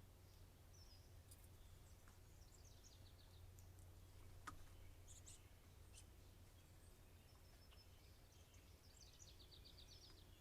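Faint songbird calls: scattered high chirps and two quick runs of repeated notes, one early and one near the end, over a steady low hum, with a single short click about four and a half seconds in.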